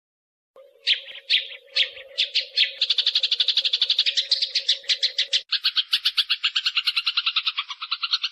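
Eurasian tree sparrows (burung gereja) fighting: a few separate sharp chirps, then fast continuous chattering of about nine chirps a second. A steady low hum runs under the first half and stops suddenly partway through, where the chattering turns lower and fuller.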